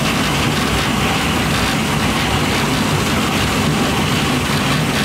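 Light-rail train running, heard from inside the car: a steady rush and rumble of wheel, track and motor noise with no let-up.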